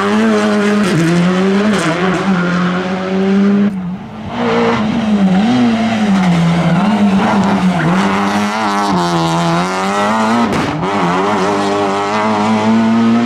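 Rally car engine held at high revs, its pitch wavering up and down with the throttle, with a brief lift off the throttle about four seconds in.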